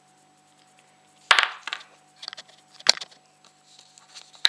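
Sharp clicks and light clinks of coins being handled and set down on a hard surface: three louder clicks about a second and a half apart, with softer ticks between.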